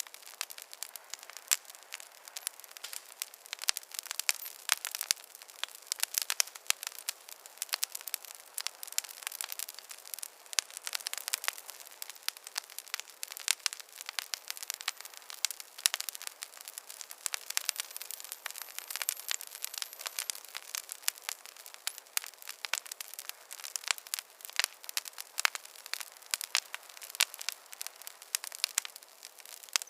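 Wood fire crackling: many small irregular snaps and pops every second over a soft steady hiss.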